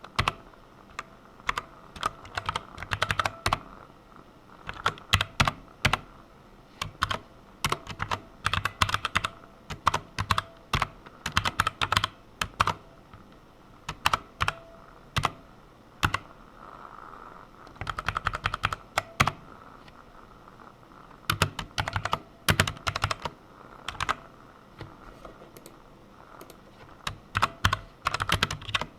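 Computer keyboard typing in quick bursts of keystrokes, with short pauses between the bursts.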